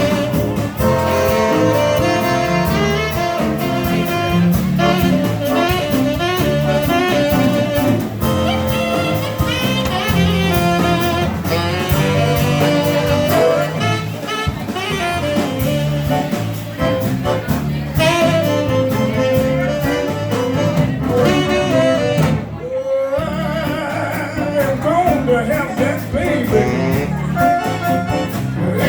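Zydeco band playing live, a jazzy up-tempo number with saxophone and singing. The music drops out for a moment about two-thirds of the way through, then carries on.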